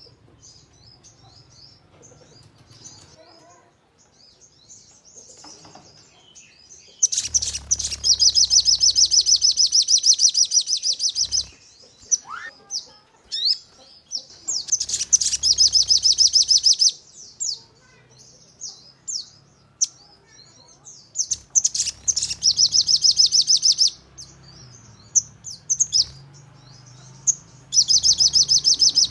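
Sogon songbird singing in four loud, fast, high-pitched trills of rapidly repeated notes, the rapid-fire 'nembak' delivery, with softer scattered high chirps between them.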